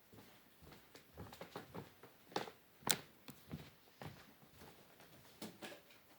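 Irregular light knocks and taps, more than a dozen over a few seconds, the sharpest about three seconds in.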